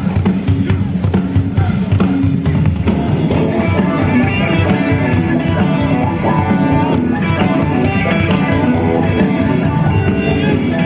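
Live rock band playing loud, with drum kit and electric guitars; a run of quick melodic notes comes in a few seconds in.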